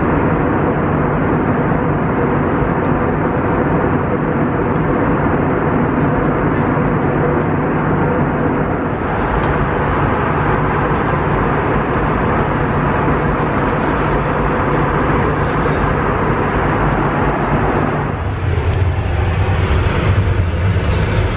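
Airbus A320-200 cabin noise heard from inside the cabin: a loud, steady rush of jet engines and airflow with a low hum underneath. About eighteen seconds in, the sound shifts lower and deeper.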